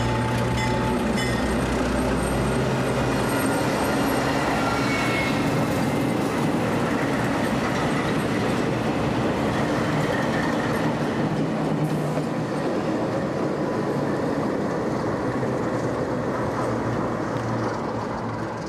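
A diesel locomotive passing close alongside on the adjacent track, its engine running under the steady noise of steel wheels on the rails. The noise fades near the end.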